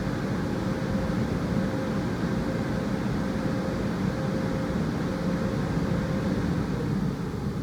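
High-pressure water jets from a touchless car wash's side panel blasters spraying against the car, heard from inside the car as a steady rushing drone.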